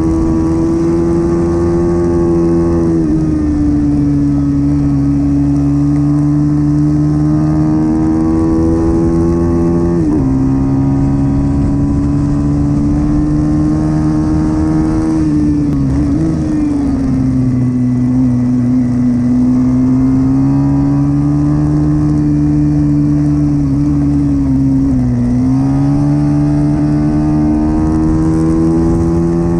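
Pit bike engine running hard at high revs, its pitch held mostly steady. The pitch dips and climbs back several times as the throttle is rolled off and on again through the laps.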